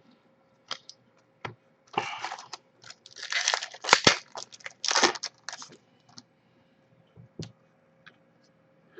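A trading card pack's foil wrapper being torn open and crinkled in the hands, in a run of loud rustling bursts from about two to six seconds in, with a few short clicks of cards being handled before and after.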